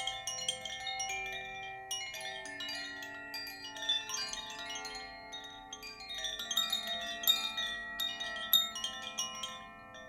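Chimes being struck or stirred continuously, many quick bright strikes ringing over one another. Several longer held tones sound underneath.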